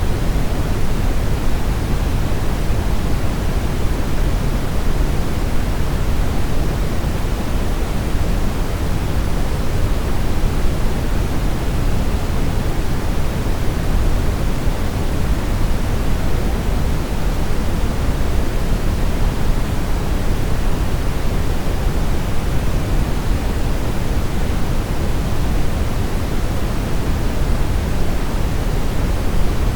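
Steady brown noise: an even, deep rushing hiss, heaviest in the bass and falling away toward the treble, unchanging throughout.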